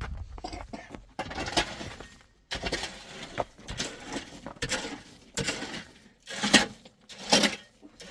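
A series of short noisy strokes, about one a second, with the last two the loudest.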